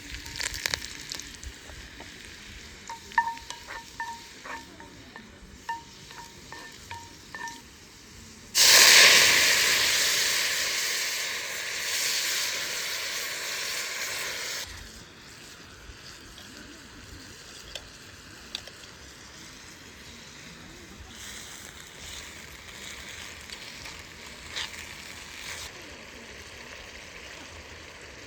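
A metal utensil clinks about ten times against a cooking pan, ringing briefly each time. About eight seconds in, a sudden loud sizzle starts as something is added to the hot oil, fades, and drops after about six seconds to a quieter steady sizzle.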